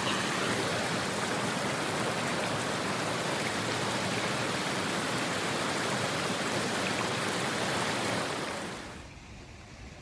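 Blizzard wind rushing steadily, an even hiss across all pitches, which dies away quickly about eight and a half seconds in to a much quieter low rumble.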